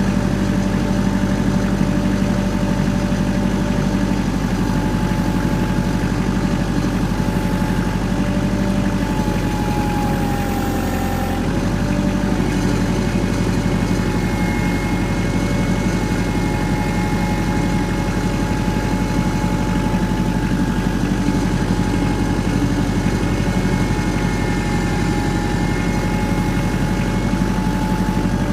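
An engine idling steadily, dipping briefly in pitch about ten seconds in, then settling back to a steady idle.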